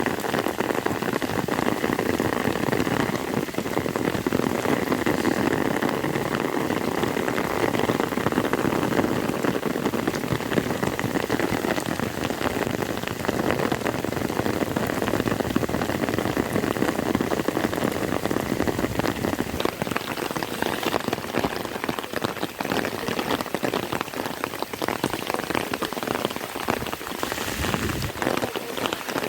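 Heavy rain falling steadily: a dense, even patter of many drops striking a surface.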